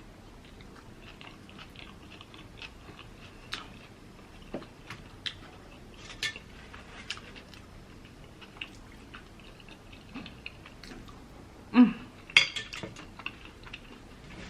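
Close-miked eating sounds: quiet chewing with scattered clicks and taps of utensils against dishes, and a louder cluster of clatter about twelve seconds in.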